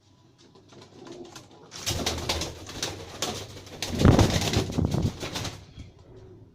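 Ferozpuri pigeons cooing, with a loud burst of rapid rustling and scuffling from about two seconds in until nearly six seconds.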